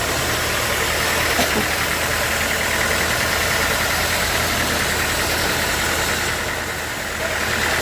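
Sawmill machinery running steadily: a low engine drone with a higher steady whine over it, easing off slightly about six seconds in.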